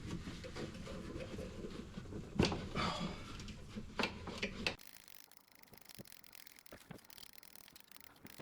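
Hand tools clicking and scraping on snowmobile engine-mount hardware, with a few sharp metallic clicks. Almost five seconds in the sound drops abruptly to a much quieter level, with only faint clicks after.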